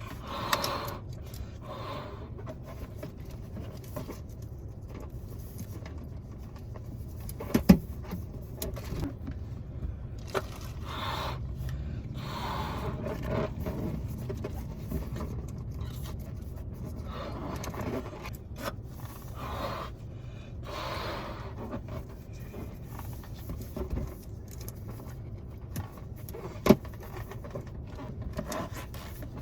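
Latex balloons being blown up by mouth and handled: breathy puffs and rubbery squeaks and scrapes come and go, with two sharp clicks, over a steady low hum.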